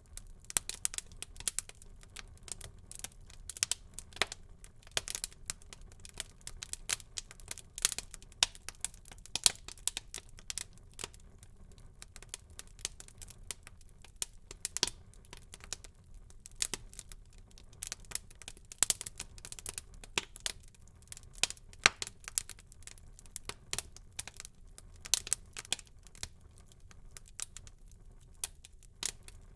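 Wood fire burning in a fireplace: irregular crackles and sharp pops from the burning logs over a faint low rumble of flame.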